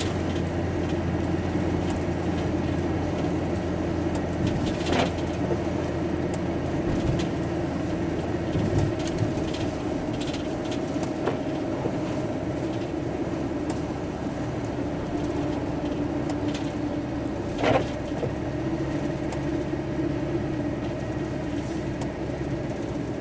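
Van engine and road noise heard from inside the cab while driving: a steady low drone, with two brief knocks, one a few seconds in and one past the middle.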